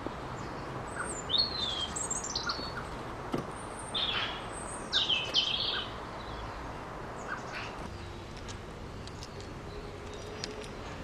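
Small garden birds chirping and calling in short, high bursts, busiest in the first half, over a steady low rumble of background noise.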